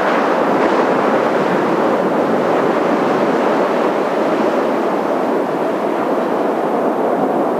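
Kawasaki T-4 jet trainers flying past, a steady jet roar, with a faint rising engine whine near the end.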